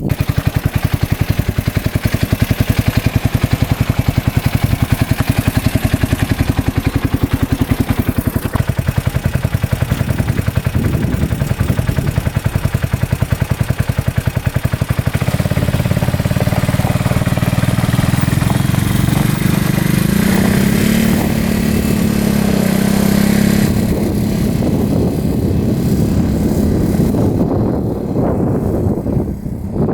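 2015 Polaris Ranger 570 UTV's single-cylinder engine running with an even, rapid firing pulse, then revving up about halfway through, rising in pitch and easing back off near the end.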